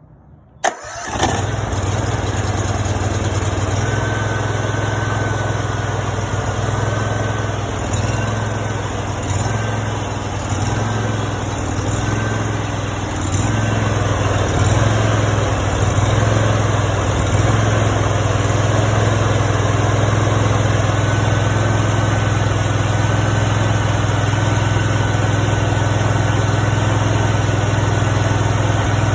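Honda GX630 air-cooled V-twin engine, brand new and choked, starting on the first try: it catches within about a second and then runs steadily. From about halfway it runs a little louder.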